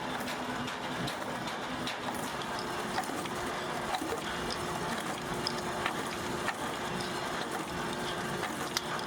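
Steady workshop machine noise with a constant hum and a few scattered light clicks.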